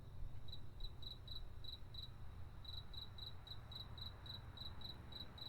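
A cricket chirping in short, regular chirps on one steady high pitch, about four a second, starting about half a second in. Under it runs a low, steady rumble.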